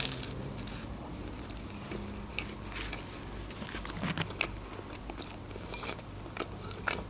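Close-miked biting and chewing of flaky puff pastry, with scattered small crunches and crackles. Near the end a metal spoon touches a ceramic bowl.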